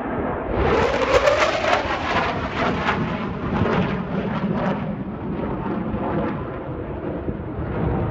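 Blue Angels Boeing F/A-18 Super Hornet jet noise during an air show pass: a loud rumble that swells about half a second in with a rising whine and crackling, then settles into a steady roar.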